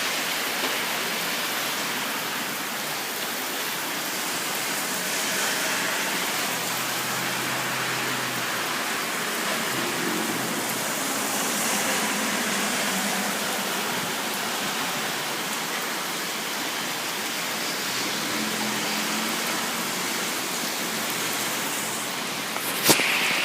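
Rain falling steadily, a constant even hiss, with one sharp click near the end.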